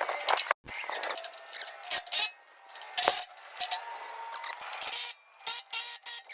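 Electric arc welding on a concrete mixer joint: irregular short bursts of sputtering hiss, starting and stopping every second or so.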